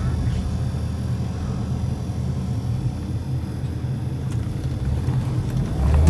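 Suzuki Escudo's engine running steadily at low revs while driving off-road, a low drone that gets a little louder near the end.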